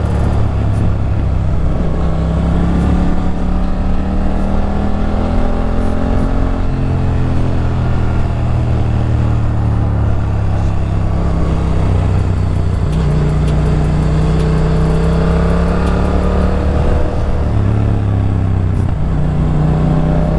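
Motorcycle engine heard from the rider's seat while riding. Its pitch climbs, then drops back several times as the gears change and the throttle opens and closes.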